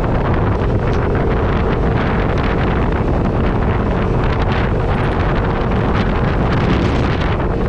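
Off-road vehicle engine running steadily while driving, heavily buffeted by wind on the microphone.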